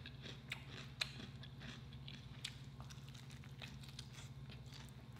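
A person chewing and biting into crispy fried chicken, close to the microphone: soft, scattered crunches and mouth clicks, the sharpest about a second in, over a steady low hum.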